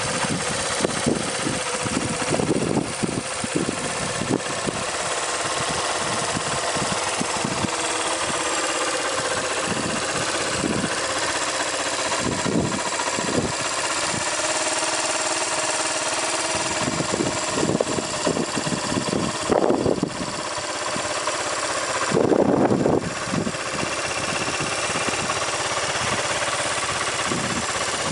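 2003 Suzuki RV125 Van Van's single-cylinder four-stroke engine running steadily, with two brief louder surges in the last third.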